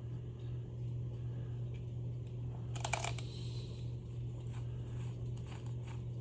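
Small metal parts handled by hand: light clicks and taps of a screw and washer, with a short cluster of sharper clicks about three seconds in, over a steady low hum.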